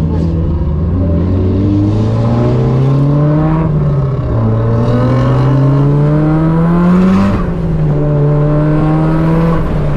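Car engine pulling through the gears: its pitch climbs, drops at a shift a little under four seconds in, climbs again, drops at a second shift about seven and a half seconds in, then holds steady.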